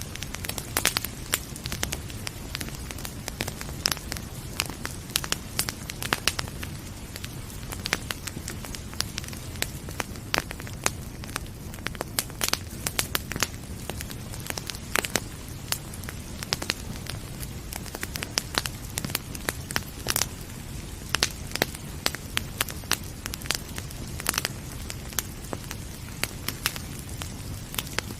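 Wood fire crackling, with frequent irregular sharp pops and snaps over a steady low rushing background.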